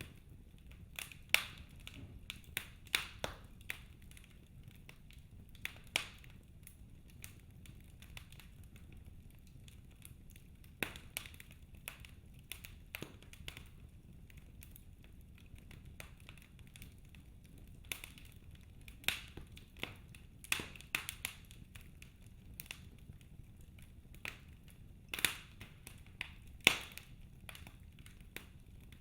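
Wood fire in a fireplace crackling, with irregular sharp pops and snaps, sometimes in quick clusters and sometimes several seconds apart, over a low steady rumble.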